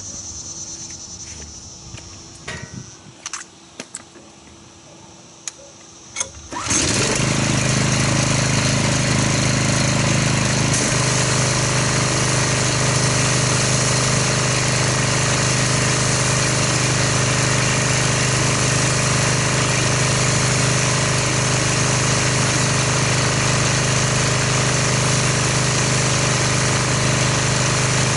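A few clicks and knocks, then about six and a half seconds in a pressure washer starts abruptly and runs steadily with a low hum and a spraying hiss, rinsing the foam off the car.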